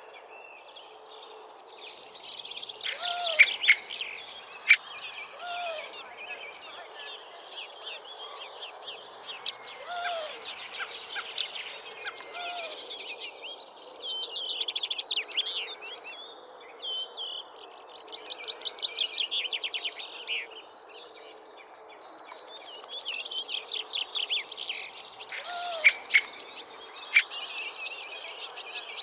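Bird song: bursts of rapid, high-pitched trilled notes, each a second or two long, repeated every few seconds, with short lower call notes and a few sharp clicks among them.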